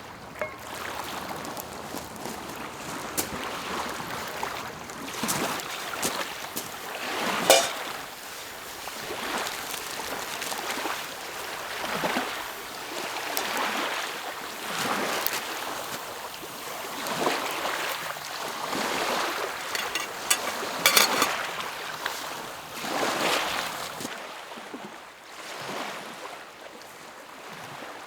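Small lake waves lapping against the shore, a soft wash swelling and fading every second or two. There are a few sharper slaps, the loudest about a third of the way in and again about three quarters through.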